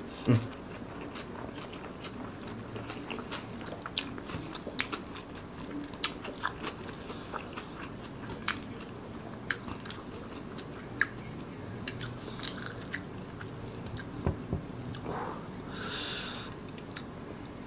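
Close-up chewing of a handful of rice with crispy fried anchovies (ikan bilis), with scattered sharp crunches and wet mouth clicks, and a short breathy hiss near the end.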